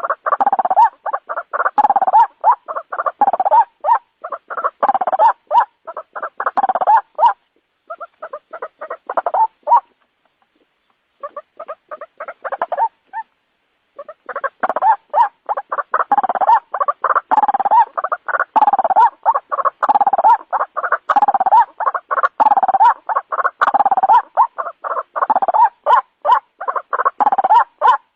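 White-breasted waterhen calling: a rapid, unbroken run of short, harsh, croaking notes repeated several times a second. The calling thins out and stops for a few seconds about a third of the way in, then resumes at full pace.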